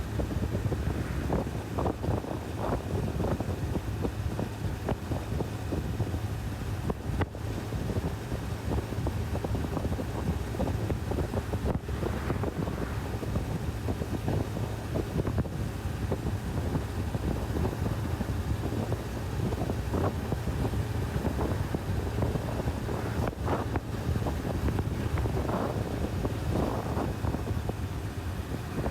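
Wind rushing over the microphone on a moving Honda CB1000R, with the bike's inline-four engine running steadily underneath at cruising speed.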